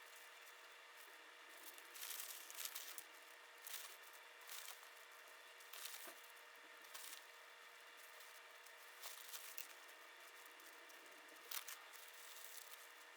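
Faint scratchy handling noises, a dozen or so short bursts like paper or material being rubbed or torn, over a steady low hiss and hum.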